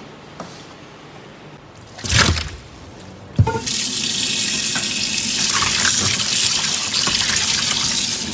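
Tap water running hard into a stainless steel sink onto raw beef tendons as they are rinsed and rubbed by hand. It starts with a click about three and a half seconds in, after a quiet stretch broken by a short loud noise about two seconds in.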